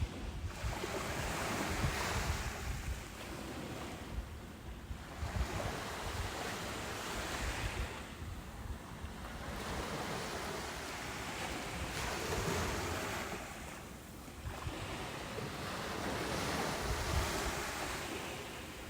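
Ocean surf breaking on a beach, the wash of the waves swelling and fading about every four to five seconds.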